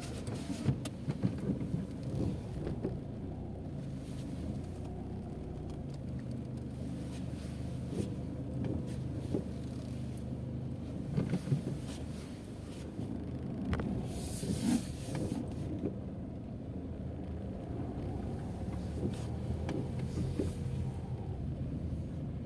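Car engine and road noise heard from inside the cabin while driving: a steady low hum with occasional short knocks and rattles.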